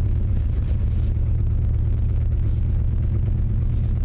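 1995 Chevy Tahoe's engine idling steadily with a low rumble shortly after a cold start, heard from inside the cab. The engine has a spun main bearing.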